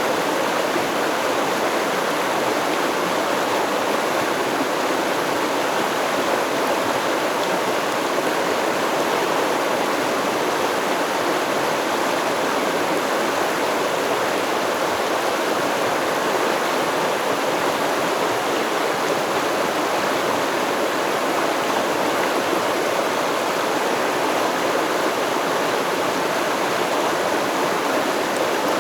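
Stream water flowing and babbling over rocks, a steady rushing with no breaks.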